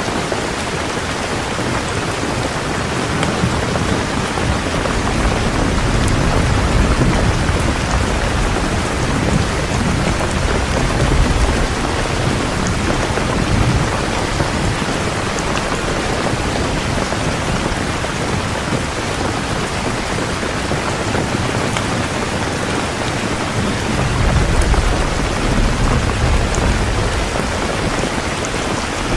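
Heavy rain falling steadily in a thunderstorm, with low rolling thunder rumbling under it twice, once from about 4 to 14 seconds and again near the end.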